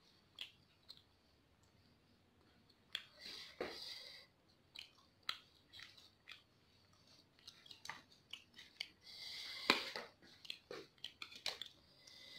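Close-up chewing and wet mouth sounds of someone eating very spicy Samyang instant noodles, in short scattered bursts with a couple of louder ones. Near the end, light clicks of a fork and knife against the plate.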